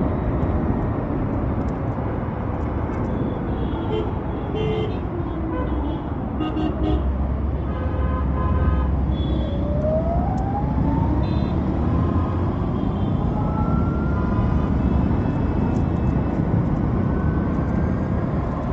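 Ather 450X electric scooter riding in traffic, with a constant rush of wind and road noise. The motor's whine rises steadily in pitch as the scooter accelerates, about halfway through. Other vehicles honk their horns in short toots.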